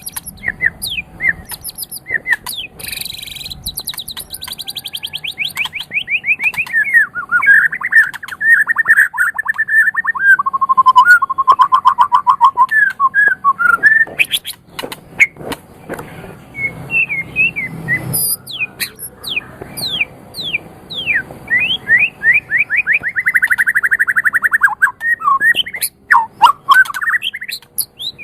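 White-rumped shama (murai batu) singing a long, varied song. Fast rattling trills, rapid sweeping whistles and a run of sharp clicking notes change from phrase to phrase every few seconds.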